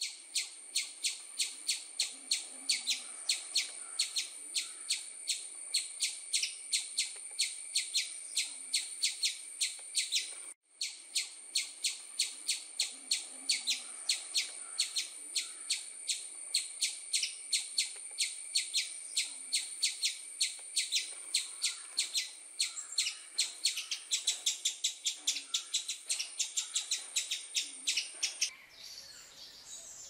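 A bird chirping in a fast, even series of short chirps, about three or four a second, with a brief break about ten seconds in. Near the end the series stops and softer, scattered calls take over.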